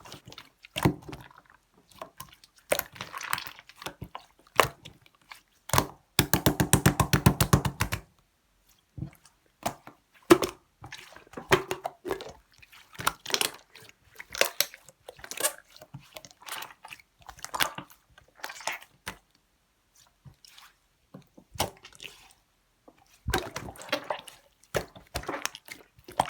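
Hands squishing, pressing and stretching a clear pink Chinese slime: irregular clusters of wet clicks and air-bubble pops, with a fast run of clicks about six seconds in.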